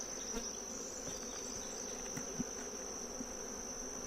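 Swarm of agitated honeybees buzzing in a steady hum around opened, disturbed hives, with a thin steady high-pitched whine above it.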